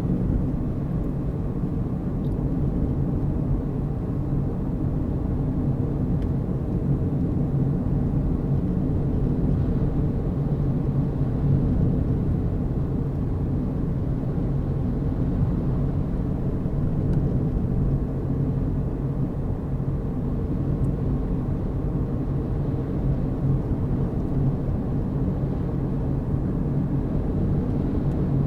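A car driving at a steady pace: a constant low rumble of engine and tyres on the road, with a steady low hum and no changes in speed.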